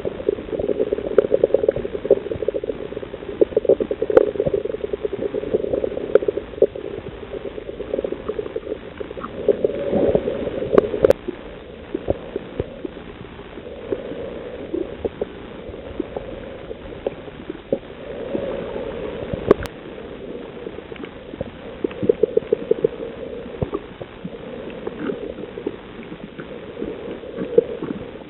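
Underwater sound on a coral reef: a dense crackle of short clicks over a bubbling, gurgling rumble, swelling louder in stretches.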